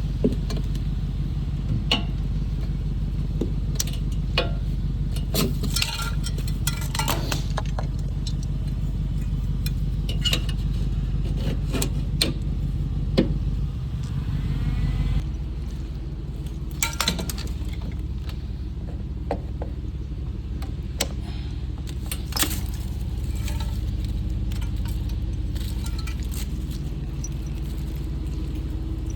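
A steady low mechanical hum with scattered metallic clinks and taps; about halfway through the hum changes pitch and drops a little in level.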